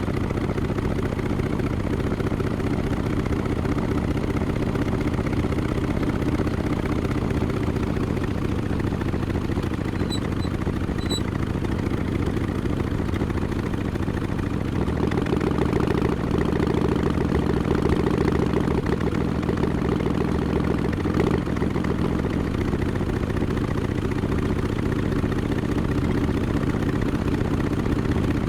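Harley-Davidson XL1200X Forty-Eight's air-cooled Evolution V-twin running steadily at low revs through Vance & Hines Short Shots pipes with quiet baffles. It gets a little louder for several seconds past the middle.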